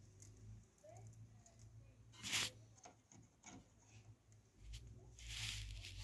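Light handling noises from parts being worked by hand: a few sharp clicks and taps, the loudest about two seconds in, and a brief rustle near the end, over a low steady hum.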